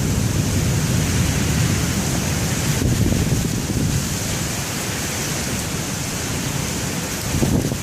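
Heavy wind-driven rain pouring down in a severe thunderstorm, a steady hiss, with strong gusts of wind buffeting the microphone in a low, fluttering rumble.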